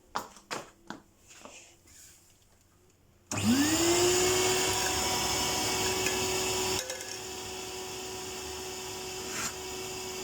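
A few handling knocks, then a vacuum cleaner switches on about three seconds in, its motor whine rising quickly to a steady pitch over a loud rush of air. A few seconds later it drops to a quieter, steady run.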